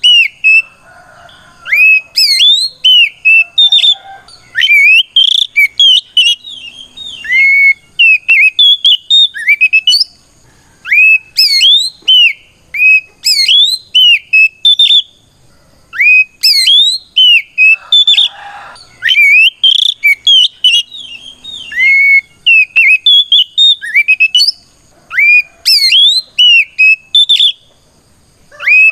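Oriental magpie-robin (kacer) singing loud, clear whistled song: quick phrases of notes that sweep up and down, with short pauses between phrases. This is the challenging, rival-calling song used to provoke other magpie-robins into answering.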